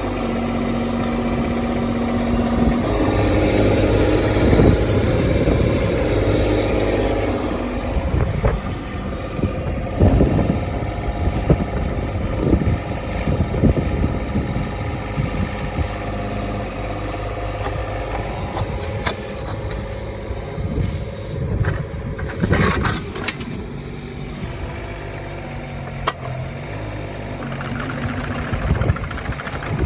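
Kubota U-10-2 mini excavator's three-cylinder diesel running steadily, its note swelling and easing as the hydraulic controls are worked, with a few sharp knocks of the machine's steel parts, the loudest about two thirds of the way through.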